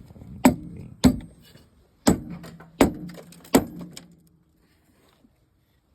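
Sledgehammer striking a nut threaded onto a bent snowmobile stud five times, each blow a sharp metallic bang with a short ring, to straighten the stud.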